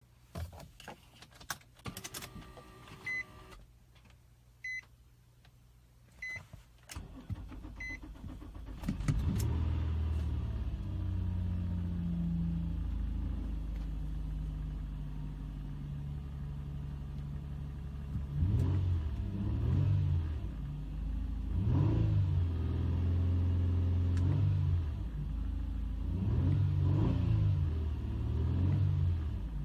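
2005 Nissan Murano's 3.5-litre V6 being started. A few clicks and four short dashboard chime beeps are followed by the starter cranking, and the engine catches about nine seconds in. It then idles steadily, with a few throttle blips rising and falling in the latter part.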